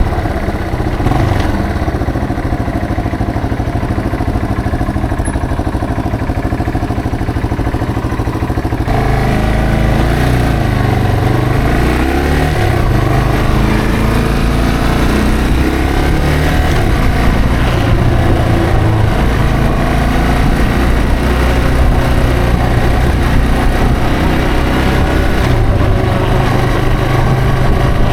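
Yamaha TW225's single-cylinder four-stroke engine running steadily at low revs, then picking up about nine seconds in, its pitch rising and falling as the bike pulls away and accelerates through the gears.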